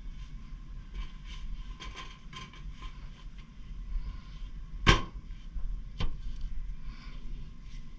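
Scattered small clicks and knocks over a steady low hum, with one sharp, loud knock about five seconds in and a smaller one a second later.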